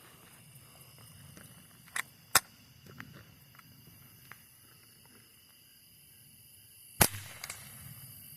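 Two quiet .22 LR shots from a Savage Model 64 semi-automatic rifle firing CCI Quiet semi-auto ammunition, each a short sharp crack, about four and a half seconds apart. A fainter click comes shortly before the first shot, and a few small clicks follow the second. The semi-auto action is cycling on these low-powered rounds.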